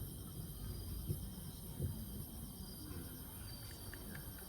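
Steady, finely pulsing high-pitched trilling of summer night insects, with a faint low murmur underneath.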